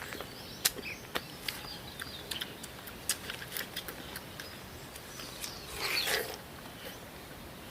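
Scattered crisp clicks and crunches of people biting and chewing watermelon, with a short wet, noisy burst about six seconds in.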